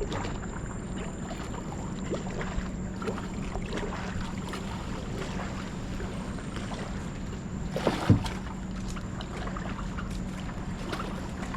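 Water moving around a kayak, with wind on the microphone, small scattered clicks and a sharper knock about eight seconds in.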